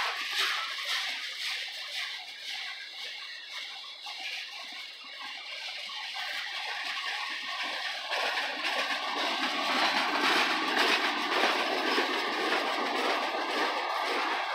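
Freight train tank cars rolling past on jointed rail, a steady wheel-on-rail noise with faint thin high ringing tones. It dips a few seconds in and grows louder from about eight seconds in.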